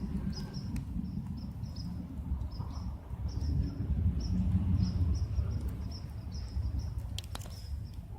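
Small birds chirping: a steady run of short, high chip notes, a few each second. Under them runs a low rumble, louder than the chirps, and a couple of sharp clicks come about seven seconds in.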